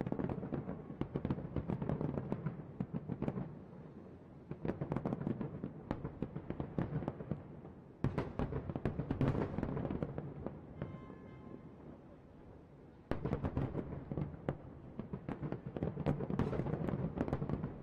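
Aerial fireworks bursting and crackling in dense, rapid volleys of booms and pops, many reports overlapping each second. The loudness drops back and then jumps up suddenly a couple of times.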